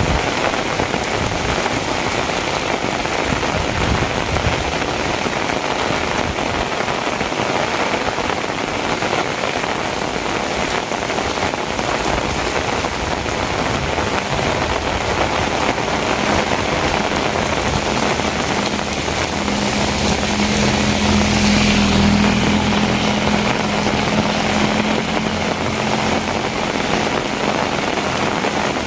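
Heavy rain falling steadily on hard surfaces. About halfway through, a low engine hum comes in under the rain, swells and then fades, as of a vehicle passing.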